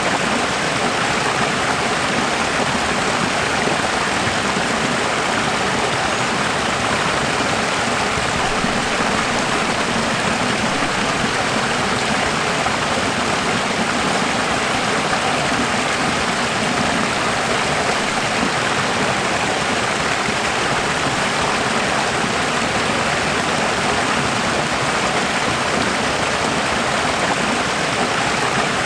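Running water: a steady, even rush of flowing water, like a stream.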